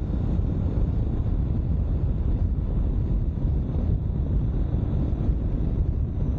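Steady wind rush over the microphone while riding a 2022 Honda CB500X motorcycle at road speed, with the bike's parallel-twin engine running underneath.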